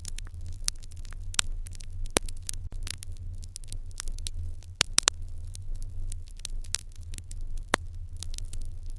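Open wood fire crackling in an irori hearth: frequent irregular sharp pops and snaps over a steady low rumble.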